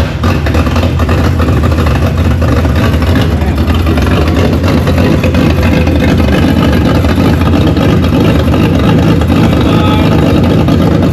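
Ford BF Falcon turbo inline-six engine running at a steady, even level, freshly installed and just started with its turbo refitted.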